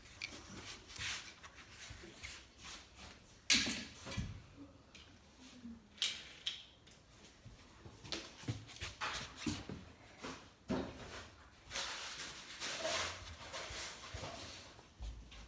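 Die-cast toy cars and a plastic track being handled, with scattered clicks and knocks and a sharp knock about three and a half seconds in. A longer rattling, rolling stretch comes about twelve seconds in.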